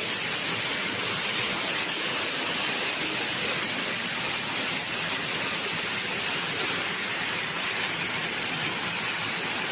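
Heavy rain pouring down, a steady, unbroken rushing hiss.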